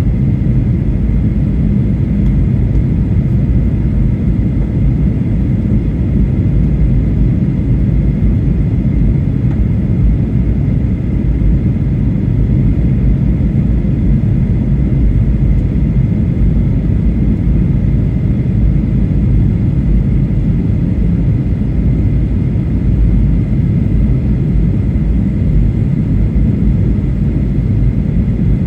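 Steady cabin noise of a Boeing 737-800 in flight, a deep even rumble of engines and airflow with a faint high steady whine.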